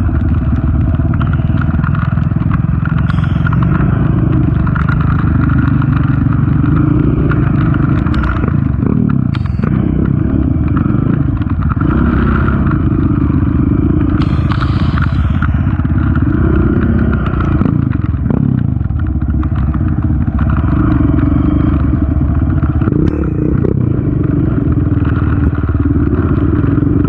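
Honda TRX 450 ATV's single-cylinder four-stroke engine running under way, its pitch rising and falling as the throttle opens and closes, with occasional clatter and scraping over rough trail.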